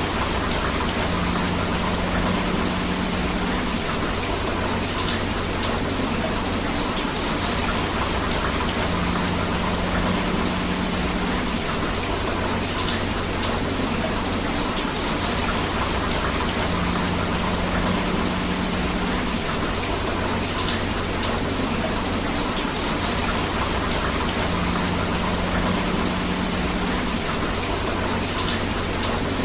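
Steady rain together with rushing river water: an even, unbroken hiss. A faint low hum swells in and fades out about every eight seconds, four times in all.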